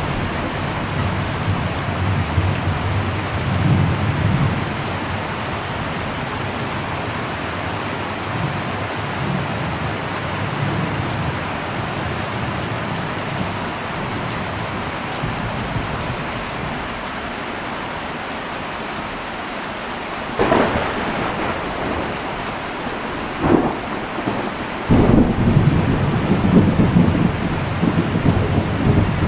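Heavy rain drumming steadily on an old metal roof, with thunder. A low rumble fades in the first few seconds, two sharp cracks come about 20 and 23 seconds in, and a loud rolling rumble breaks in suddenly near the end.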